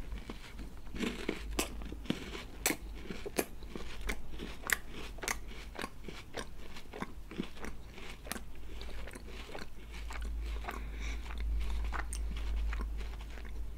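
Close-miked chewing of crunchy KitKat chocolate wafer: a dense run of sharp, irregular crunches and crackles as the wafer breaks between the teeth, thinning out in the last few seconds.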